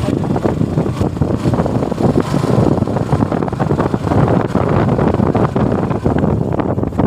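Wind buffeting the microphone of a moving motorcycle: a loud, steady, rumbling rush.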